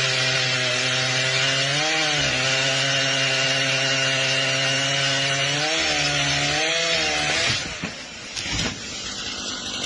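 A small motor running steadily under a loud rushing noise, its pitch wavering briefly twice before it cuts off about seven and a half seconds in.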